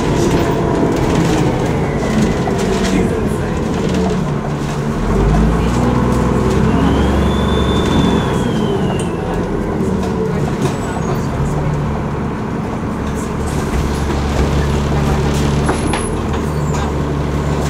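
Alexander Dennis ALX400 double-decker bus engine pulling under load, its pitch rising and falling, with a heavy low rumble coming in about five seconds in. The turbocharger whistles in a high tone that rises and then falls away over about three seconds, near the middle.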